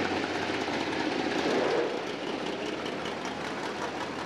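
Supercharged engine of a blown pro-street car rumbling as the car rolls past at low speed. Loudest in the first two seconds, then dropping a little as it moves away.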